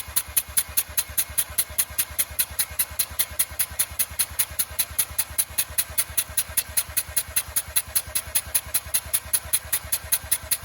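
Mazda RX-8 13B rotary engine cranking on its starter motor for a compression test, with an even, rapid chuffing rhythm of about five to six pulses a second as each rotor face passes compression.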